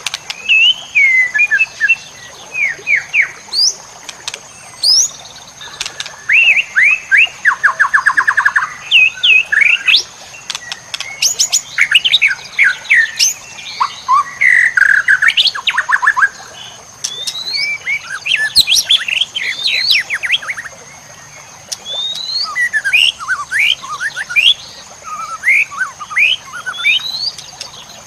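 White-rumped shama (murai batu) singing continuously: short, varied phrases of whistled sweeps, rising slurs and rapid trills, separated by brief pauses. A faint steady high-pitched tone runs underneath.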